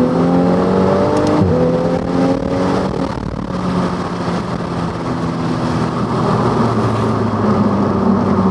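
Toyota Supra A90's B58 turbocharged inline-six, breathing through a titanium exhaust and catted downpipe, accelerating hard. The engine note climbs, drops sharply at an upshift about a second and a half in, and climbs again. From about three seconds in it settles to a steadier, lower note.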